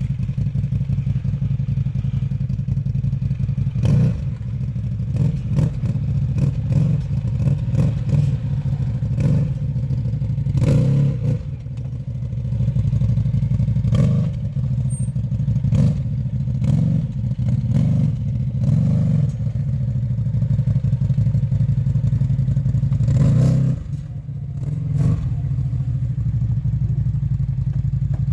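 Off-road vehicle engine running steadily while riding, with frequent clattering and knocks and a brief easing off about twelve seconds in and again near the end.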